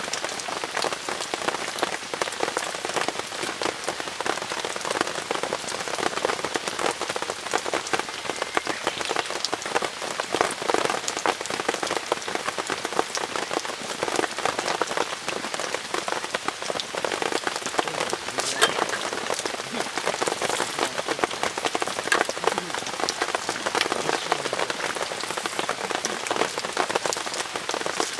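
Steady rain falling, a dense even patter of many drops striking a surface.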